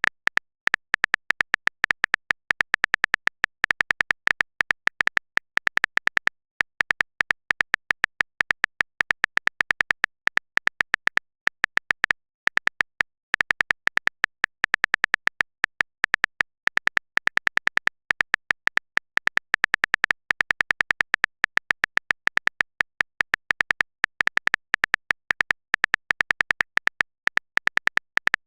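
Typing sound effect for chat messages: a rapid stream of short, high, pitched clicks, several a second, with brief pauses between runs.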